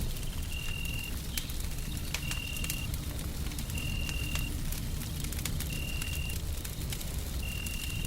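Crackling wood fire, with sharp pops scattered over a steady low rumble of white noise. A short high tone repeats about every second and a half.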